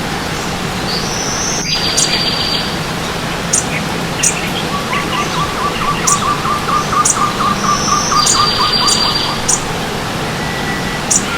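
Several birds singing over the steady rush of a running stream. A high call ending in a buzzy trill comes twice, about six seconds apart, a fast low trill runs for about four seconds in the middle, and short high chips are scattered throughout.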